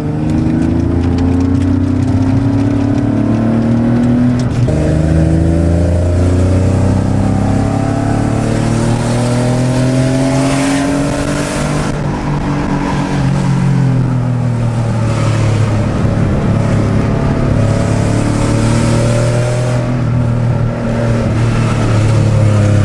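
Porsche sports car's engine heard from inside the cabin, accelerating on a mountain road: its note climbs in pitch, drops back at each gear change, and climbs again several times.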